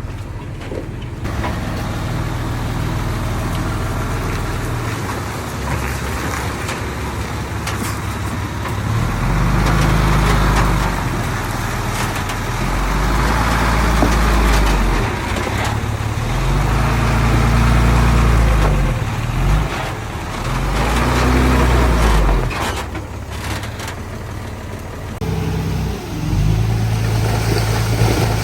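Heavy diesel engine of earthmoving machinery, a bulldozer or dump truck, running loudly and revving up and down several times as it works.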